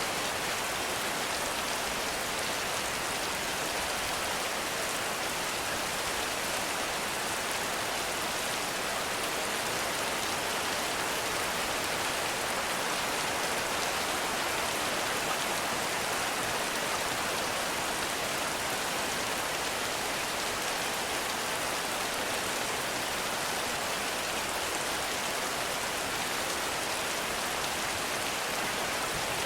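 Heavy rain falling steadily, a dense, even hiss of drops with no breaks or single loud impacts.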